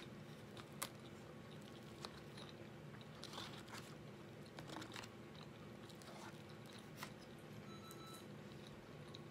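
Faint chewing of soft chicken pot pie, with a few scattered light clicks as a metal fork scoops and scrapes in a foil pie tin.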